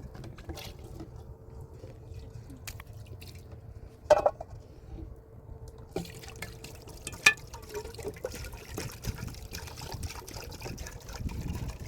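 Water being handled: dripping and pouring, with scattered small clicks and two sharp knocks, about four and seven seconds in, and a faint steady tone underneath.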